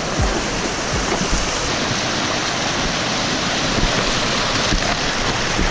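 Rushing water of a mountain stream: a steady, even hiss.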